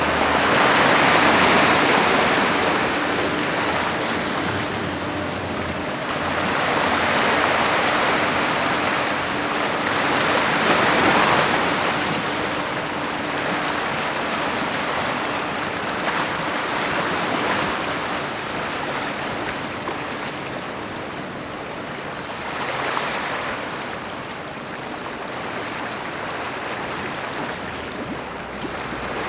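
Heavy typhoon swell breaking close to shore, a continuous wash of surf that swells louder in surges as sets of waves crash, about four times.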